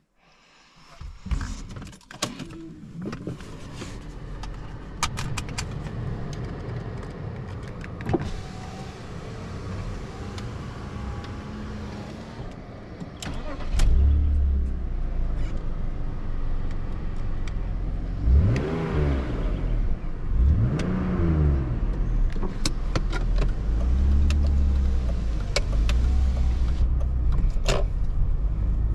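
BMW 530i E39's inline-six petrol engine heard from inside the cabin, running with scattered clicks and knocks. About halfway through it gets louder, and soon after its pitch rises and falls twice as the car moves off.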